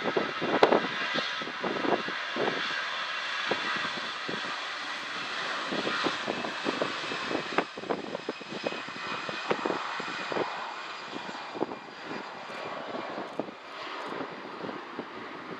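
Jet engines of an Air Canada Airbus A319-114 running at takeoff power: a steady high-pitched whine and roar that fades slightly toward the end. Irregular low gusts of wind buffet the microphone throughout.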